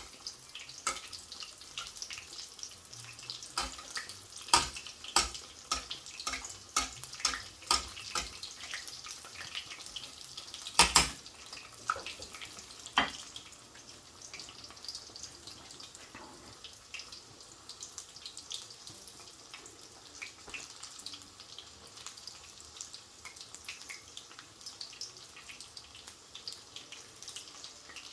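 Breaded chicken cutlet shallow-frying in sunflower oil, sizzling with a steady hiss and many sharp crackles and pops. The crackling is dense over the first half, with one loud pop about eleven seconds in, then settles to a quieter, steadier sizzle.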